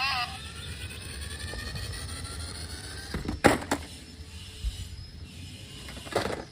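Toy vehicle's small motor whirring, its pitch rising over the first few seconds over a low rumble, then two sharp clacks about three and a half seconds in and another near the end.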